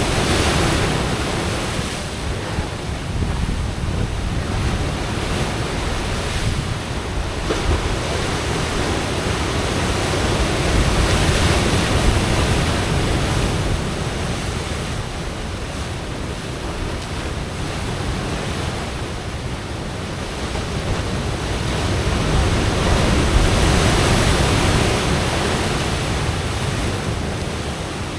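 Pacific surf breaking and washing against coastal rocks, a continuous rushing roar that swells louder about eleven seconds in and again near the end. Wind buffets the microphone throughout.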